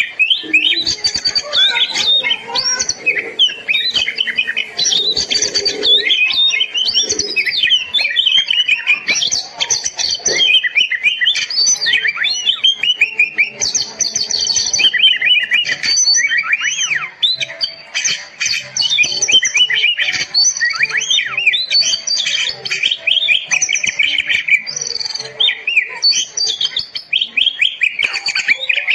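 Oriental magpie-robin (kacer) singing continuously: a rapid, unbroken run of varied whistles, trills and chirps.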